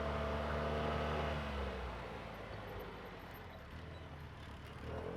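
ATV engine running steadily, then its hum eases off about two seconds in and picks up again near the end.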